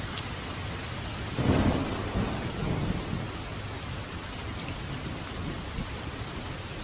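Steady light rain falling, with a roll of thunder that breaks about a second and a half in, rumbles on in a few smaller swells and dies away within about two seconds.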